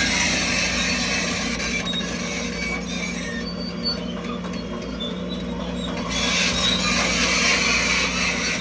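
Crawler bulldozer's diesel engine running steadily under load, with short high metallic squeaks from the tracks. The higher noise and squeaking ease off for a couple of seconds midway, then come back.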